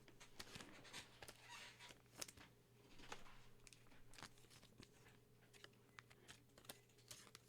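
Faint, scattered crinkles and clicks of trading cards and their wrapping being handled.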